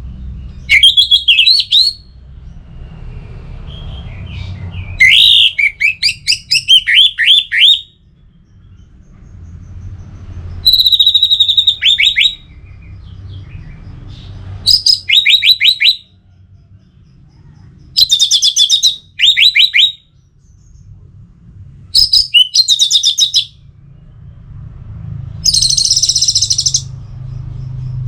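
Orange-headed thrush singing loudly: seven phrases of rapid, varied whistled notes, many quickly falling in pitch, each lasting one to three seconds with pauses of a couple of seconds between. A low rumble runs underneath.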